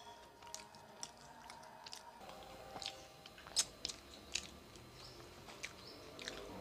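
Close-up mouth sounds of chewing egg toast: soft chewing with scattered wet clicks and smacks, the sharpest a little past three and a half seconds in.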